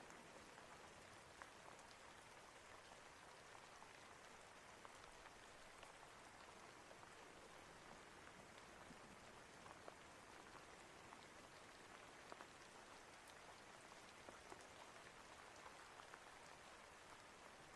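Steady, faint rain, with many scattered drops ticking on a surface.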